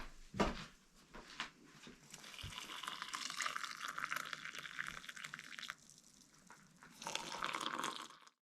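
Hot water pouring into a mug in two pours, a steady splashing pour starting a couple of seconds in and a shorter one near the end, which then cuts off suddenly.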